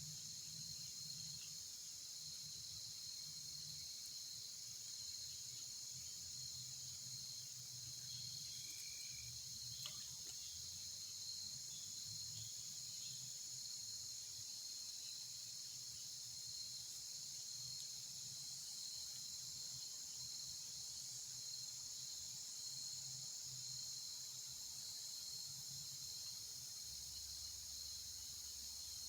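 Steady, high-pitched chorus of insects trilling without a break, with a faint low hum underneath.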